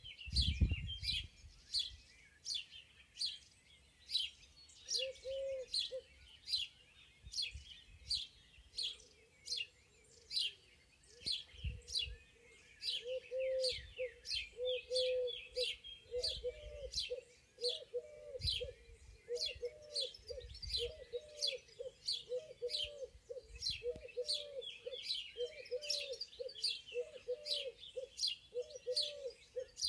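Songbirds chirping continuously in a spring forest, a quick series of high, downward-sliding chirps coming about two a second. Underneath, a lower repeated call sounds briefly about five seconds in and then repeats steadily, roughly once a second, from about the middle on.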